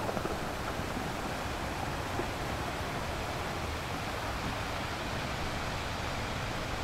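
Steady rushing outdoor noise: an even hiss with an uneven low rumble underneath and no distinct events; no animal calls are heard.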